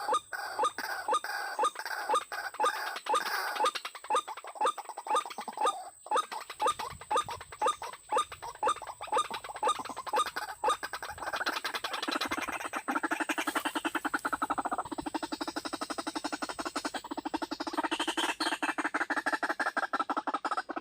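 White-breasted waterhen (ruak-ruak) calling: a run of evenly repeated loud calls about two a second, changing about halfway through into a faster, almost unbroken pulsing chatter.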